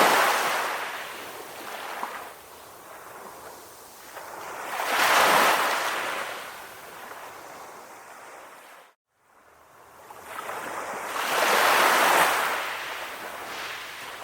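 Calm ocean waves breaking, three slow surges of surf that swell and fade about every six to seven seconds. The sound cuts out completely for a moment about nine seconds in.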